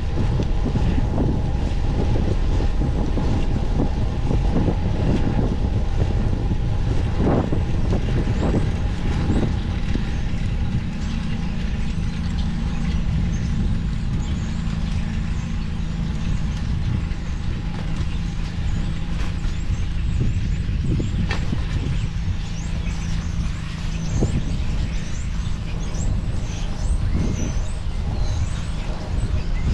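Street traffic noise under a steady low rumble of wind on the microphone while riding a bicycle. A motor vehicle's steady hum runs through the middle stretch, and there are a few sharp knocks.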